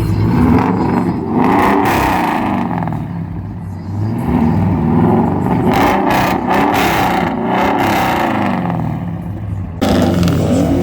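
A car engine revved repeatedly through its exhaust, the pitch rising and falling several times, with an abrupt change in the sound near the end.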